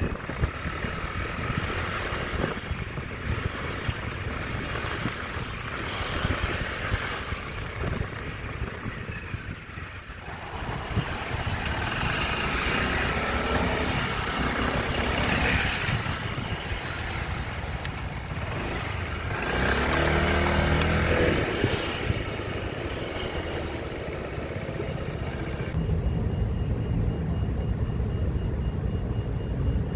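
Motorcycle ride through city traffic: engine running with road and traffic noise throughout. About twenty seconds in, an engine note grows louder for a couple of seconds.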